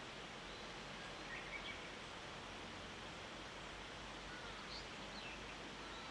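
Faint early-morning outdoor ambience: a steady hiss with a low hum beneath it, and a few distant songbird chirps and thin whistles, a short cluster just after a second in and more around the middle.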